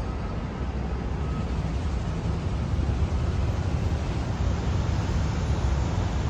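Steady low rumble of a moving vehicle, with no sudden events.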